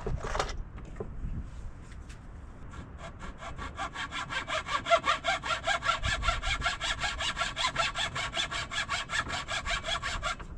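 Hand saw cutting through wood. A few scattered knocks come first, then from about three seconds in the saw runs in quick, even strokes, about five a second.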